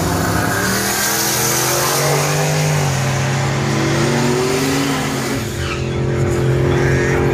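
Single-turbo Ford 302 V8 with a stock shortblock running hard under load during a pass. Its pitch drops at the start, then climbs again. About six seconds in it briefly dips and settles to a lower, steadier sound.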